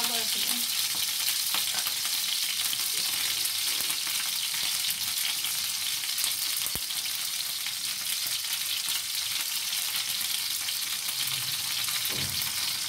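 Hot oil sizzling steadily around a chicken and vegetable shashlik skewer shallow-frying in a frying pan.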